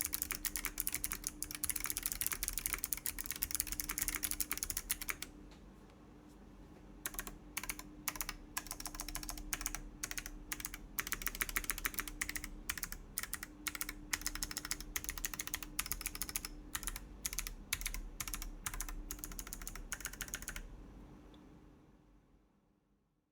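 Fast typing on a Chilkey ND104 mechanical keyboard with WS BigLucky Clicky switches, FR4 plate and PBT doubleshot keycaps, each keystroke a crisp click. The typing pauses for about two seconds a few seconds in, resumes, then stops near the end.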